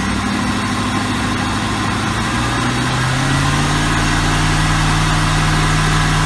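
Mercury Marine 5.7 litre V8 boat engine running at idle, just brought back to life with a new water pump, fuel pump and a rebuilt carburetor. About three seconds in its speed rises a little, then holds steady.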